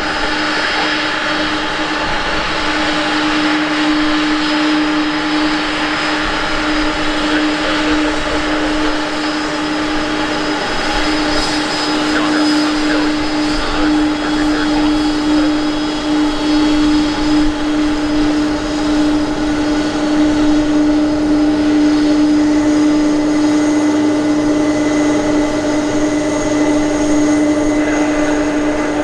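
Aircraft engine running steadily: a constant drone with a higher whine above it.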